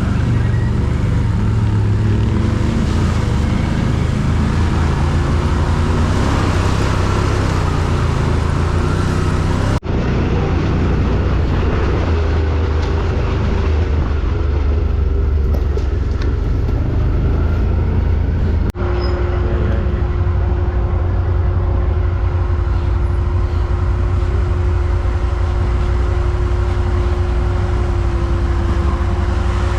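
ATV engine running steadily for the whole stretch, its pitch shifting with the throttle. The sound breaks off abruptly twice, about ten and nineteen seconds in, and after the second break the engine holds a steady tone.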